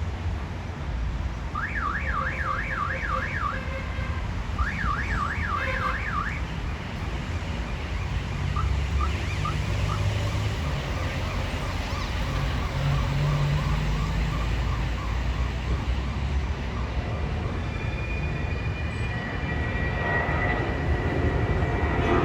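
Two bursts of a fast up-and-down warbling electronic alarm in the first few seconds, followed by fainter regular pips, over the steady low rumble of a jet airliner on the ground. A higher steady whine comes in near the end.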